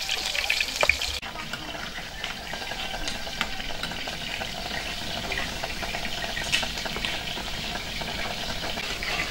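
Food frying in hot oil in a pan, sizzling with many small crackling pops; the sound changes abruptly about a second in.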